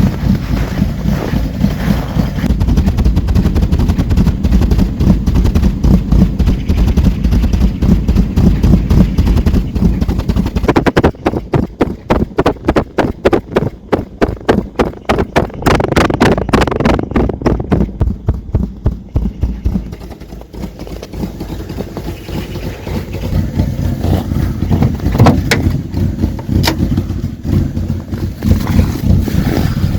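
Cold 1976 Citroën GS Club's air-cooled flat-four engine running. About a third of the way in, it breaks into a stretch of sharp, evenly spaced pulses for several seconds, then settles back into steady running.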